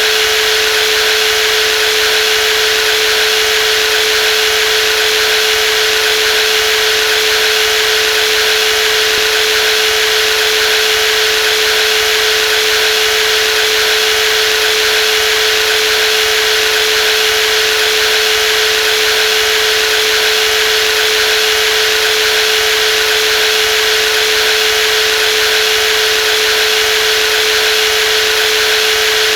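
Brushless jigsaw running continuously at a steady speed, a constant motor hum with a steady whine and a hiss of higher noise.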